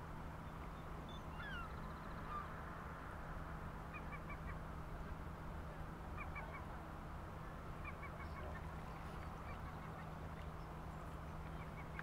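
Faint bird calls: short high notes in quick runs of three or four, repeated every couple of seconds, with a couple of gliding notes early on, over steady low background noise.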